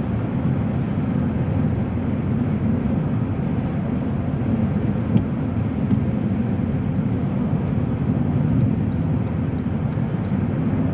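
Steady rumble of a car driving, tyre and engine noise heard from inside the cabin, with a few faint ticks and one brief click about five seconds in.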